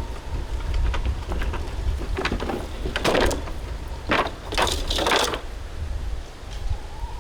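Strong wind buffeting the microphone with a continuous low rumble, broken about midway by several short bursts of noise that rise and fall over about two seconds.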